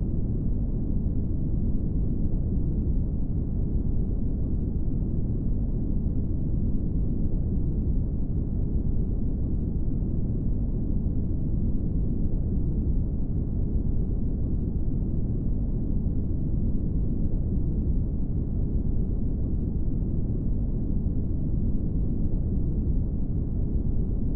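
Steady brown noise: an even, deep rumbling hiss, strongest in the bass and fading away toward the treble, unchanging throughout.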